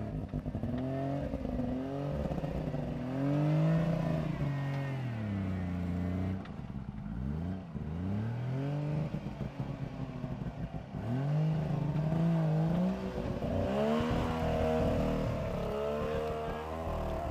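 Engine of a Suzuki 4x4 trail vehicle revving up and falling back again and again as it crawls over rocks and climbs a steep bank under load.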